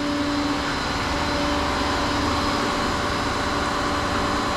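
Truck engine idling steadily, a low rumble with a steady hum over it.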